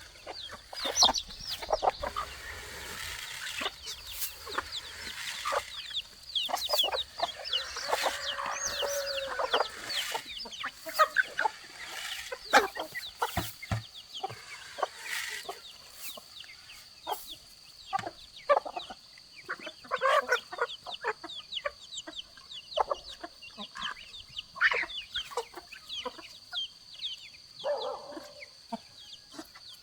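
Chickens clucking, with many short high chirps, over a steady high tone and frequent sharp clicks and knocks.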